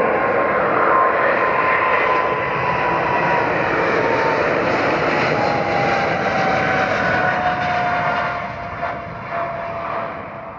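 Airliner's engines passing close by, a loud rush with a whine that slowly falls in pitch as the aircraft goes by, fading away near the end.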